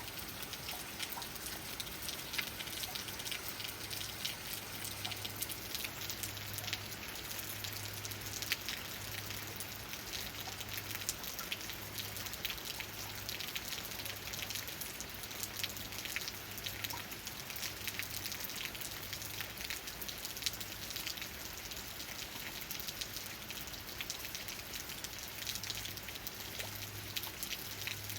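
Steady rain, with dense pattering of raindrops striking leaves.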